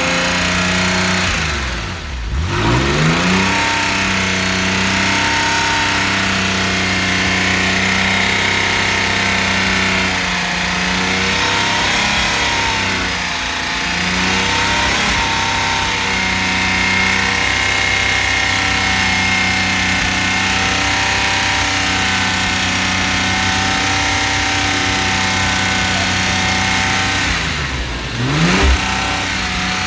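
Porsche 996 Carrera 911's water-cooled flat-six engine running at a steady speed, its pitch briefly dropping and climbing back about two seconds in and again near the end. The owner asks whether its sound is a sign of bore scoring or piston slap.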